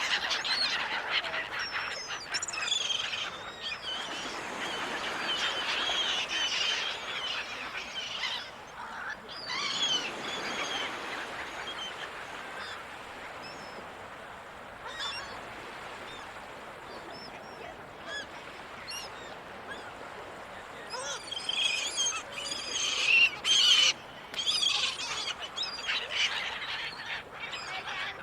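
Gulls calling again and again over a steady background wash. The calls are busiest in the first ten seconds and again about three-quarters of the way through.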